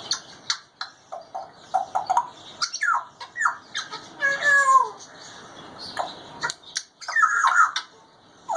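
An African grey parrot vocalising in a string of short clicks and squawks, with a few longer whistled calls that fall in pitch, about four and seven seconds in.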